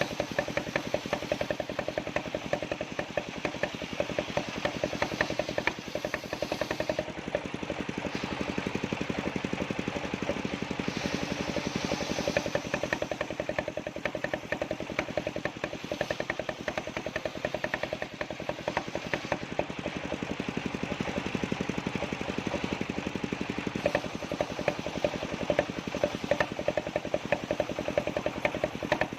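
Engine of a circular-saw sawmill running steadily, with a rapid, even beat of firing pulses.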